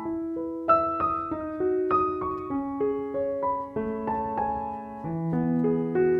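Background music: a gentle solo piano playing a slow melody of single notes over sustained chords.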